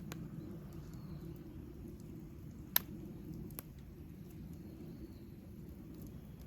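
Wood campfire crackling: three sharp pops, the loudest a little under three seconds in, over a low steady rumble.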